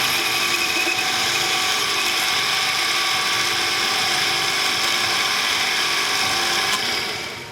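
Metal lathe running steadily with a geared whine, then switched off and winding down near the end.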